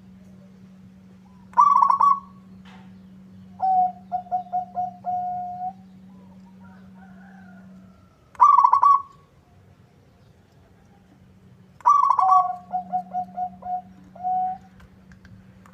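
Zebra dove (perkutut) cooing: four phrases, each opening with a loud burst. Two of them run on into a quick series of short, even coos that ends in a longer held note.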